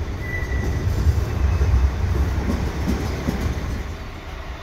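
Alstom Coradia LINT diesel railcar running at the station platform: a low rumble with wheel-on-rail noise, and a short high squeal about half a second in.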